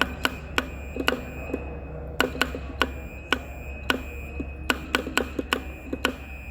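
Telegraph key and sounder clicking in an irregular, Morse-like pattern of sharp clicks, some in quick pairs, over a steady low hum.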